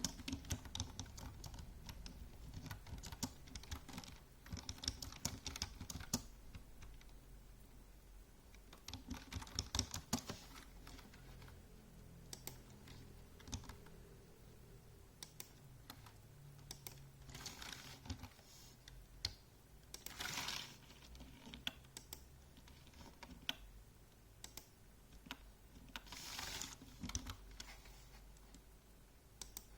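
Typing on a computer keyboard: irregular runs of quick key clicks broken by short pauses. Three brief rustling swishes come in partway through, about 17, 20 and 26 seconds in.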